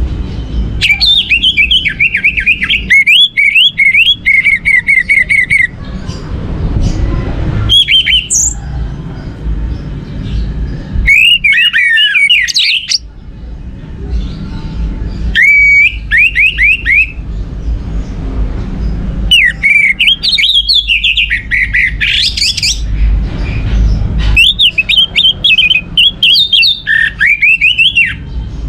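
Orange-headed thrush (anis merah) singing in loud bursts of rapid, sliding whistled notes. There are about six phrases, each one to four seconds long, separated by short pauses.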